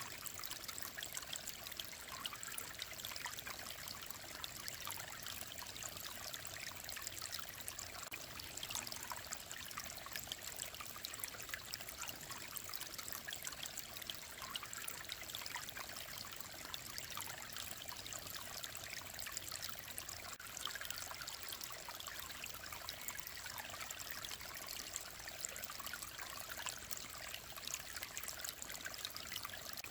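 A clear mountain stream running and trickling over rocks: a steady, even babble of water with fine splashes.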